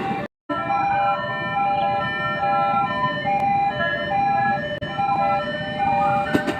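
A simple electronic tune of held notes stepping up and down, over a low rumbling background.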